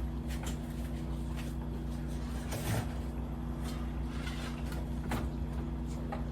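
Kitchen sounds: a steady low hum with a few scattered soft clicks and knocks, the loudest a little before the middle.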